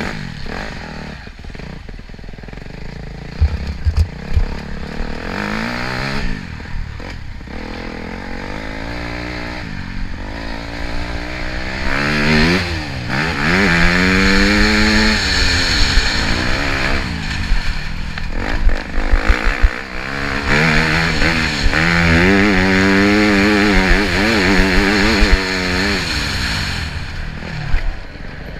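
Motorcycle engine running under way, its pitch rising and falling again and again as it accelerates and eases off, over a steady rushing noise.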